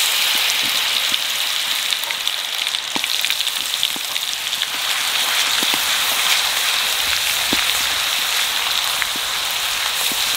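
Garlic paste frying in hot oil with whole spices in a kadai as it is stirred: a steady, high sizzling hiss with scattered small crackles.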